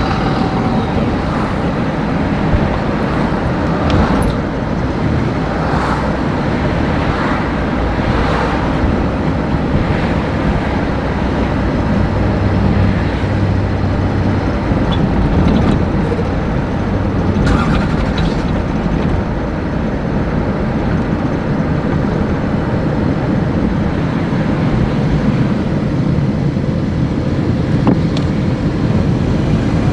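Steady vehicle and traffic noise, a continuous low rumble with a few brief knocks.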